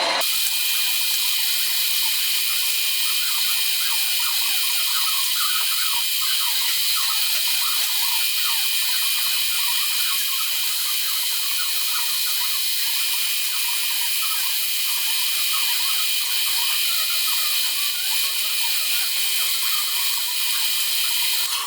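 Mini lathe running under power, a steady high whine and hiss with faint scratchy chatter from the tool cutting a shoulder on a metal part. It starts and cuts off suddenly.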